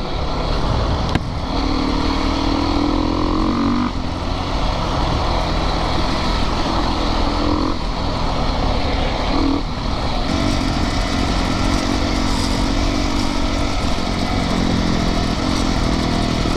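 Yamaha YZ450FX dirt bike's four-stroke engine running while riding, its pitch rising and falling several times with throttle changes.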